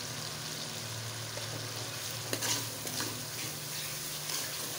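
Tomato, chilli and turmeric masala frying in ghee in a metal pot, under a steady low hum, with a metal ladle stirring it and clicking against the pot from about halfway through.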